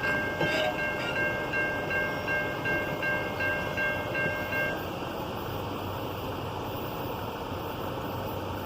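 Norfolk Southern intermodal freight train rolling past, its wheels running on the rails in a steady rumble. A high, evenly repeating ringing tone sounds over it and stops about five seconds in.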